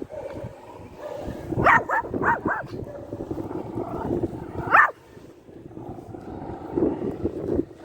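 A dog barking: four quick barks in a row about two seconds in, then a single bark a few seconds later.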